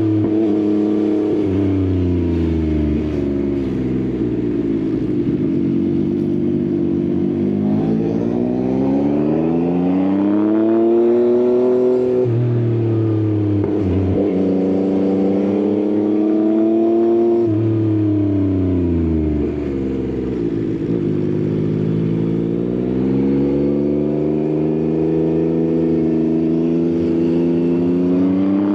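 Yamaha XSR900's inline-three engine through an Akrapovič exhaust under riding load, its pitch falling as it slows and climbing again as it pulls out, several times over, with quick gear changes between.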